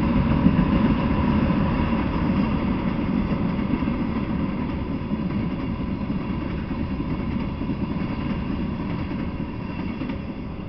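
Freight train of tank cars rolling past on the rails: a steady rumble of wheels on track that slowly fades as the last cars go by.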